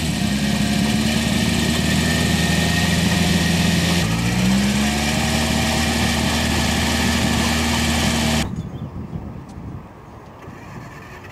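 A car engine idling, its pitch sagging and picking back up about four seconds in. It drops away suddenly near the end, leaving a much quieter background.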